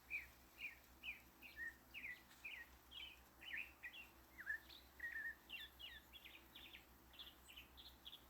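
Faint backyard birdsong: short high chirps repeated about twice a second, growing busier and more varied in the second half.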